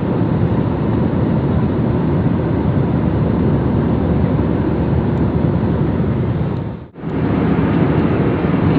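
Steady rush of airliner cabin noise, jet engines and airflow heard from inside the passenger cabin. It drops out briefly about seven seconds in, then comes back.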